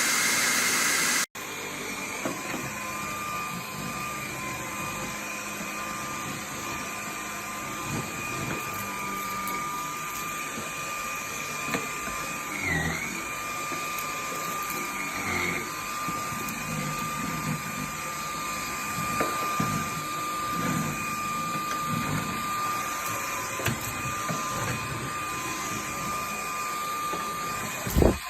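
Dreame T10 cordless stick vacuum motor running with a steady high whine. It is louder in the first second, then cuts abruptly and carries on at a lower level, its pitch dipping briefly twice near the middle. Light bumps and rattles come through as it is worked, and there is one loud knock near the end.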